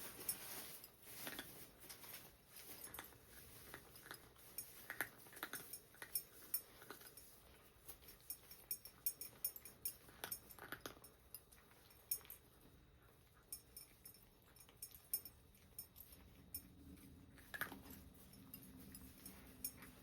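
Cats eating from their bowls: faint, irregular small clicks and clinks of food and bowls.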